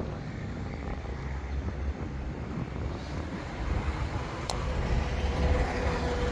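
Car on the move: a steady low rumble of road and engine noise, with a single sharp click about four and a half seconds in.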